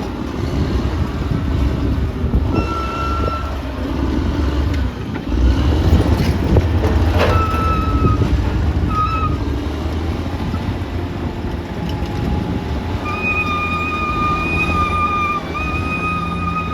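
Caterpillar D6R XL bulldozer's diesel engine working under load with a heavy, steady low rumble. A knock sounds about seven seconds in. A high squeal comes and goes briefly a few times, then holds through the last few seconds.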